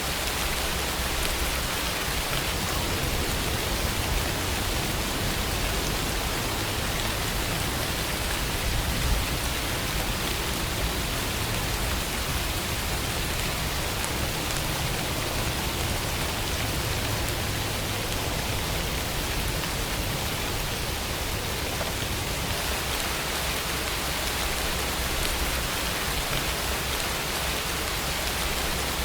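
Steady rainfall, a dense even hiss of rain falling on surfaces.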